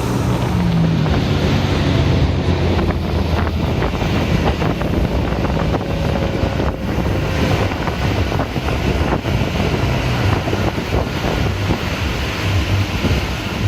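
Tow boat's engine running steadily under way, with heavy wind buffeting the microphone and rough water splashing.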